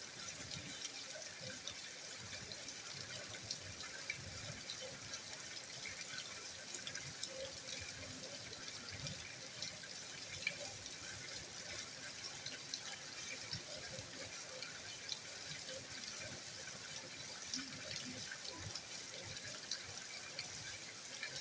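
Steady rain falling: an even hiss with many small drop ticks scattered throughout.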